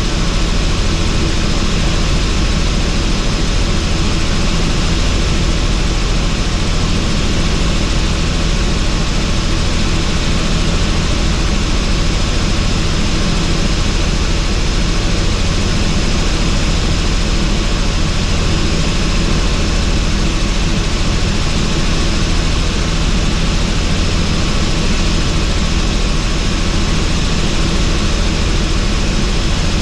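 Helicopter in cruising flight, heard on board with the doors off: steady loud rotor and engine noise mixed with wind rush, with a thin high whine held on top.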